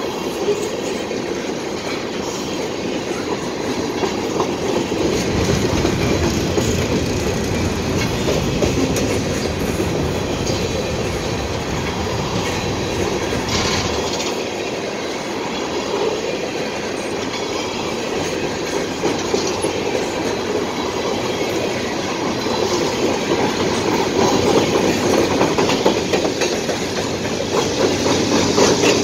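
A string of empty steel coal hopper cars rolls past steadily, with wheels rumbling and clicking over the rail joints. The sound grows louder near the end.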